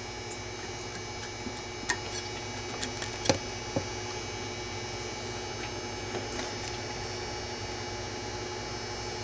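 Steady electrical hum with a few light clicks and ticks about two to four seconds in, from strands of 24-gauge wire being twisted together by hand.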